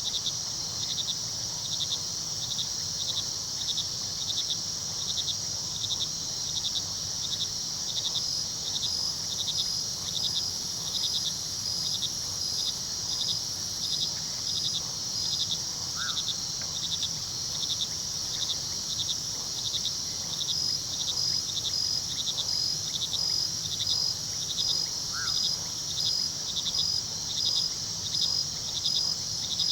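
Crickets chirping in an even, repeating rhythm over a continuous high insect trill, with a second pulsing insect joining in and out. Underneath is the low, steady rush of a river and a distant waterfall. Two brief faint calls come about halfway through and again near the end.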